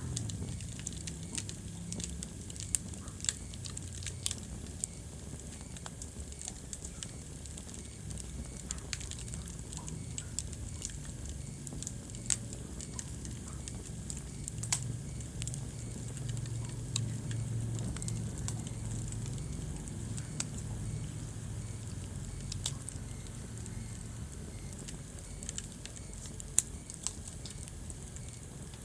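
Wood fire crackling in a fireplace: scattered sharp pops and snaps, a few louder than the rest, over a low steady rumble of the flames.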